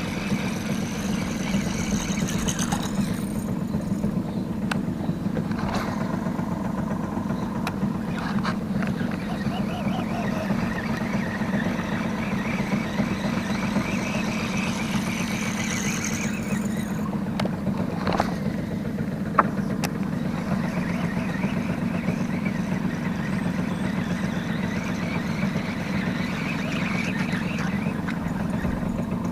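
Boat's motor running steadily at a low, even speed, with a few short sharp knocks here and there.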